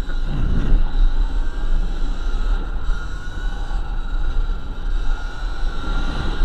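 Sur-Ron Light Bee X electric dirt bike under way: a steady high electric-motor whine over heavy low wind rumble on the microphone.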